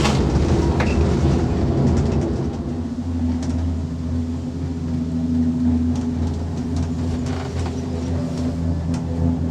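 Skyrail gondola cabin heard from inside as it runs on the cable: a steady low mechanical hum and rumble, with a few light clicks and rattles, busiest in the first couple of seconds.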